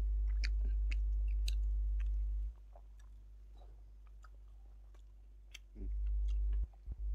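A person eating rice and meat by hand: chewing, with small wet mouth clicks and crackles scattered throughout. Under it runs a low hum that drops out after about two and a half seconds, comes back briefly, then cuts in and out near the end.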